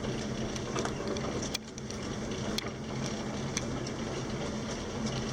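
Hospital crib-bed being wheeled along a corridor: a steady rolling rumble with a low hum and scattered light clicks and rattles.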